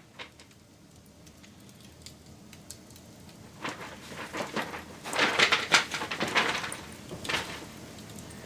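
Campfire crackling: scattered sharp crackles that thicken into a dense, louder flurry from about three and a half seconds in, peaking past the middle and thinning out near the end.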